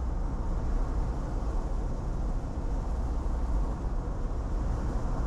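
Steady low rumble of a car driving, with tyre and road noise as heard from inside the cabin.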